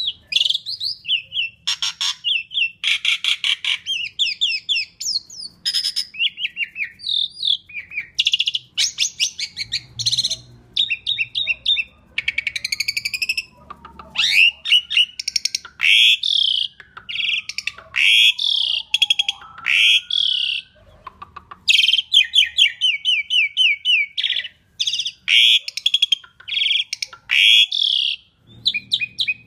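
Asian pied starling (jalak suren) singing loudly and nonstop: a dense, varied stream of rapid chattering trills, harsh notes and whistled rising and falling phrases.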